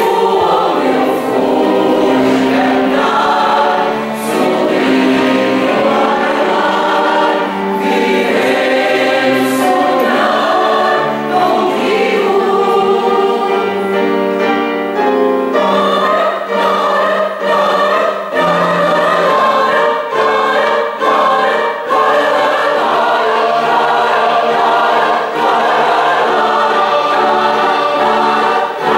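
A choir singing, several voices holding chords that change every second or so.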